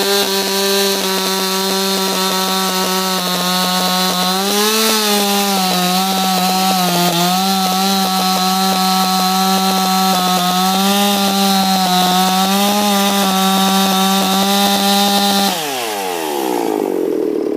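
Ported Husqvarna 357 XP two-stroke chainsaw held at full throttle, cutting into a peeled white pine log, its pitch sagging briefly a few times under load. About two seconds before the end the throttle is released and the engine winds down toward idle.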